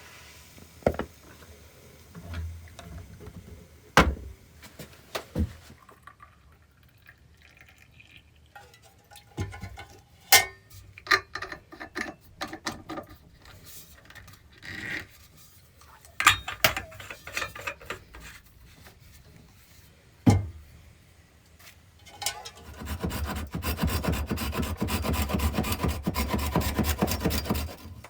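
Scattered knocks and clatter of wood being handled, then, from about 23 seconds in, a steady run of quick rasping strokes of a hand tool working wood.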